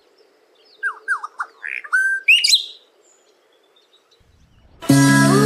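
Bird chirping: a quick series of short downward-sweeping chirps, then a few higher, faster trills, over about two seconds. Music with plucked guitar begins near the end.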